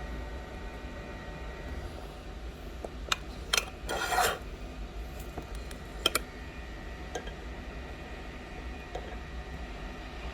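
A tool scraping leftover adhesive and glass off an iPhone 11's frame: a few sharp clicks and one louder half-second scrape about four seconds in, over a steady machine hum.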